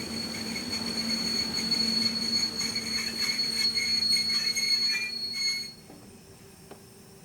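A train running with a steady high wheel squeal and scattered clicks, cutting off suddenly about six seconds in.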